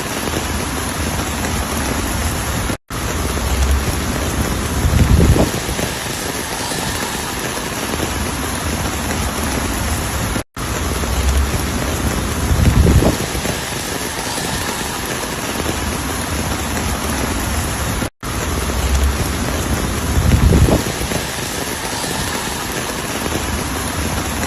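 Steady heavy rain, an even hiss, with a low rumble swelling and fading about every eight seconds. The sound cuts out for an instant three times where the recording loops.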